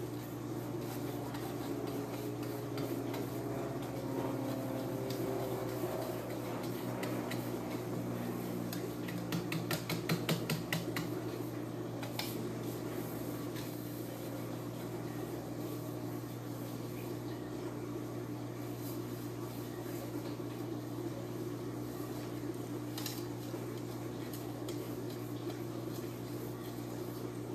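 Light clinks and scraping of a utensil against a small dish as craft material is scooped and worked, with a quick run of taps about ten seconds in. A steady low hum runs underneath.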